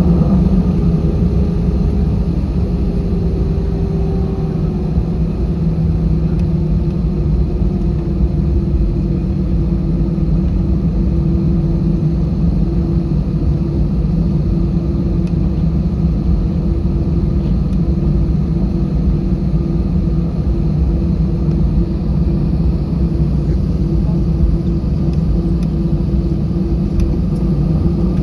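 Steady cabin rumble inside an Airbus A320: engine and airflow noise with a constant low hum. A higher tone slides slightly down in pitch during the first few seconds.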